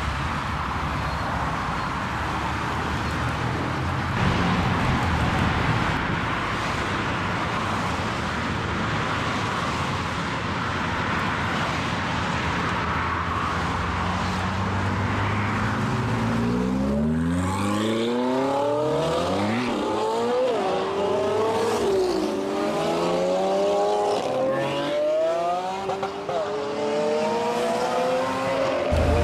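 Ferrari 458 Speciale's 4.5-litre V8 in traffic. For the first half it is a low, steady engine sound under dense road noise. From about halfway on, the revs climb and fall again and again as the car accelerates and shifts gear.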